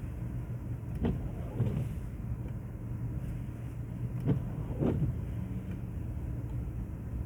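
Car cabin with a steady low rumble of engine and tyres on a snowy road. Windscreen wipers sweep in two cycles, each a quick pair of strokes, about a second in and again near the middle.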